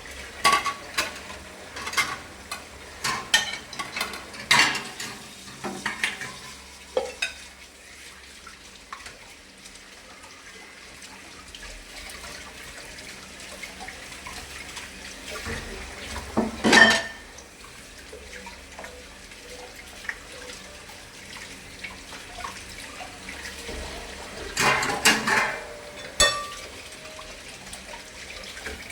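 Dishes and cutlery clinking and clattering as they are washed at a sink, with water running, and a loud clatter about 17 seconds in and again around 25 seconds.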